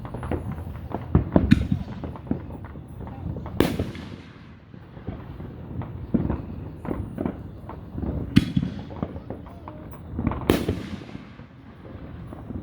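Fireworks going off: a steady run of crackling pops and low booms, with three sharp, loud bangs standing out about four, eight and ten and a half seconds in.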